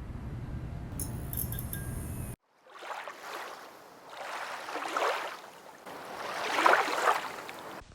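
The tail of a guitar music track ends about two seconds in. Then sea waves wash in on the shore, the surf swelling and falling back twice.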